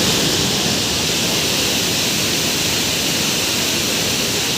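Floodwater rushing through a dam's open spillway gates: a loud, steady roar of falling water.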